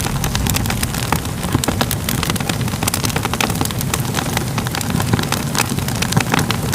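Crackling fire: a steady low rumble of burning with frequent, irregular sharp pops and crackles.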